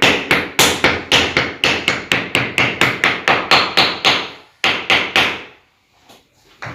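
Rapid, even knocking of a mallet in percussive manual therapy along the spine, about four strikes a second, stopping about four seconds in, followed by two more knocks.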